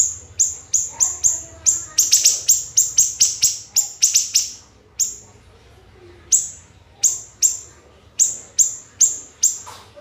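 Siri-siri bird singing a rapid string of sharp, high, shrill notes, each sweeping quickly downward, about three a second. These are the close-set 'shots' (tembakan rapat) prized as tutor material for songbirds. The run pauses for about a second halfway through, then picks up again.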